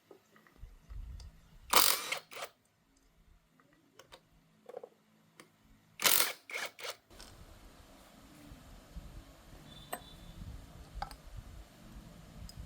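Hand tools and metal engine parts being handled: two loud clatters of a few quick metallic strikes each, then a low steady background with a few faint ticks.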